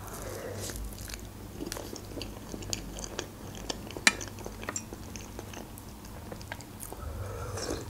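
Close-miked chewing of a soft meringue roll with cream, with small wet mouth sounds and light clicks. A single sharper click stands out about four seconds in.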